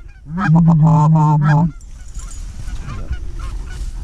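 Geese honking. A loud, pulsing run of honks cuts off about 1.7 s in, and a flock goes on honking farther off.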